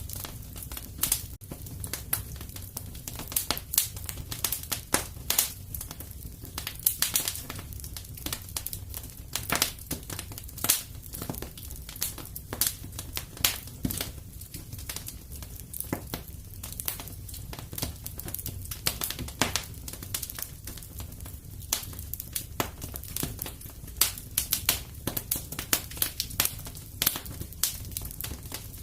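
Wood fire crackling in a fireplace: many irregular sharp pops and snaps over a low, steady rumble of burning.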